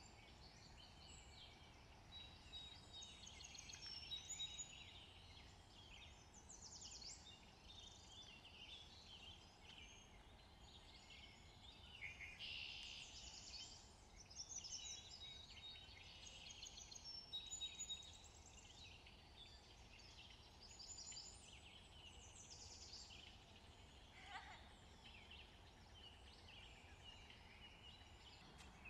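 Faint chirping of birds in the background, many short calls overlapping throughout.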